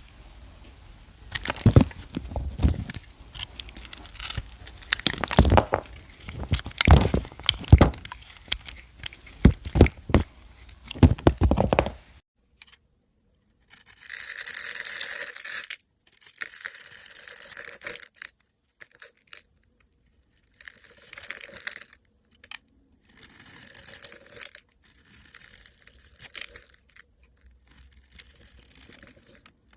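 Rapid crisp crunching and cracking, then, after an abrupt break about twelve seconds in, a series of separate scraping or tearing strokes, each lasting a second or two with short pauses between.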